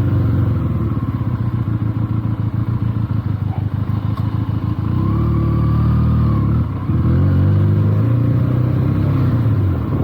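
Benelli TNT 300's parallel-twin engine under way, running at low revs with a plain firing beat. About halfway it picks up revs, dips briefly, then runs higher again before easing off near the end.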